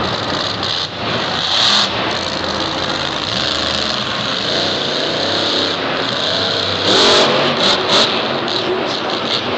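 Monster truck's supercharged V8 engine revving hard over a loud arena din, with louder surges about a second and a half in and again around seven to eight seconds in.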